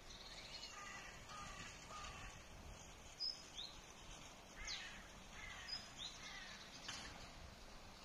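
Birds calling: a run of three short calls about a second in, then scattered sharper chirps, over a faint steady outdoor hiss.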